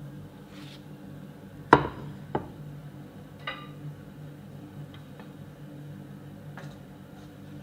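Kitchenware being handled: a sharp knock a little under two seconds in, a smaller one just after, then a ringing clink and a few light taps, over a steady low hum.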